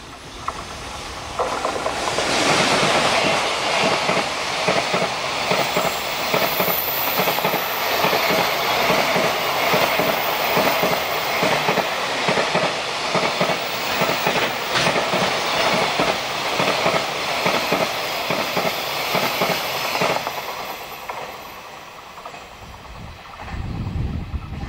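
A JR Freight EF210 electric locomotive and a long train of container flatcars pass at speed close by: a steady rumble with rapid clickety-clack of wheels over the rails. It swells about two seconds in and dies away after about twenty seconds as the last wagons go by.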